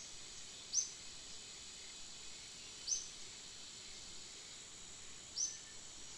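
Three short, high bird chirps about two and a half seconds apart, over a steady high-pitched chorus of insects.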